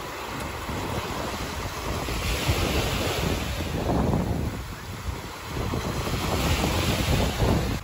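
Sea waves washing onto the shore in surges, loudest about four seconds in and again near the end, with wind rumbling on the microphone.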